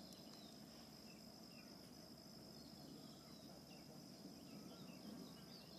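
Faint outdoor ambience: a steady, high-pitched insect trill, with a few soft, scattered bird chirps.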